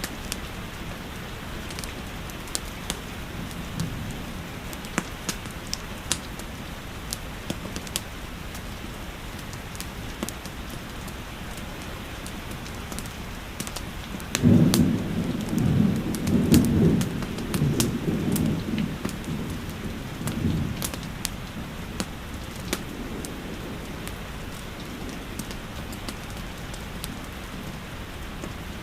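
Steady rain with sharp fireplace crackles popping throughout. About halfway, a roll of thunder rumbles loudly and fades away over several seconds.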